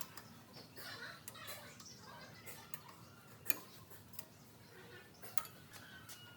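Scattered light clicks and taps, with one sharper click about three and a half seconds in, over faint voices in the background.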